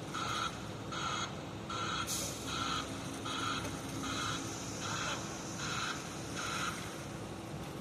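A construction vehicle's reversing alarm beeps steadily about once every three-quarters of a second, about nine times, then stops near the end. An engine runs underneath.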